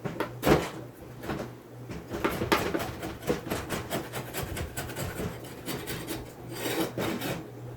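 Wooden beehive parts scraping and rubbing against each other as they are handled, an irregular run of rasping strokes.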